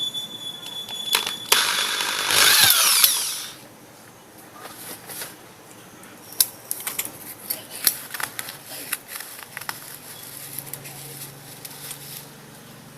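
A small power tool runs for about two seconds, its pitch falling as it winds down, followed by scattered light clicks and taps of parts being handled.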